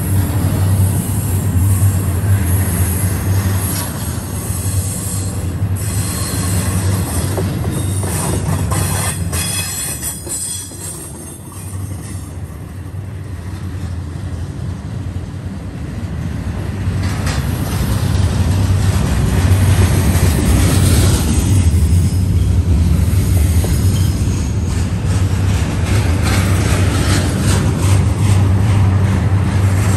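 Double-stack intermodal freight train's well cars rolling past close by: a steady rumble of steel wheels on rail, with spells of higher-pitched wheel noise now and then. The rumble eases briefly about eleven seconds in, then builds again.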